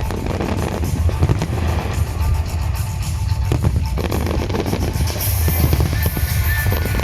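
Fireworks going off in a display: repeated booming bursts, with high crackling near the end, over music playing along with the show.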